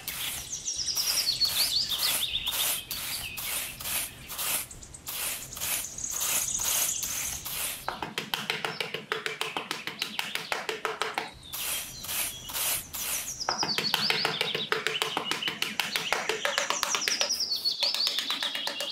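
Small hand trowel scraping and scooping sand in quick, even strokes, about three a second and faster in the second half. Over it, birds chirp with repeated high trills that step down in pitch.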